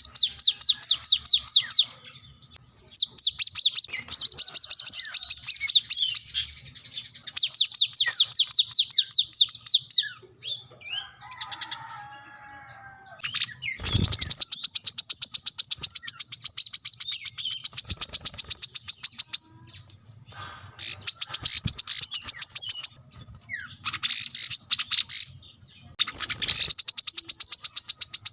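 Brown-throated sunbird (kolibri kelapa) singing in fast trills of high repeated notes, phrase after phrase with short pauses. This is a male in vigorous, rival-seeking song.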